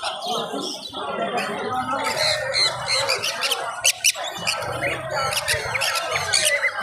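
Many caged birds chirping and squawking at once, short repeated calls, over the steady murmur of people talking.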